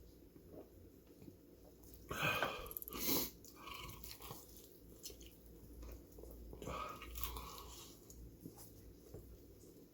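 Close-up chewing and biting into breaded Korean fried chicken legs coated in spicy sauce, with two louder noisy bursts about two and three seconds in and a few softer ones later.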